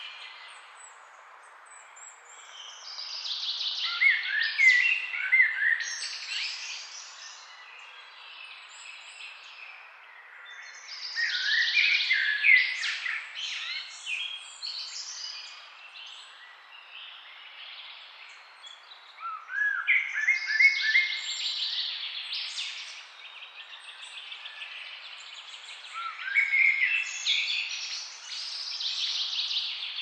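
Birds chirping and singing in four bouts of a few seconds each, with quieter chirping between them, over a faint steady background hiss.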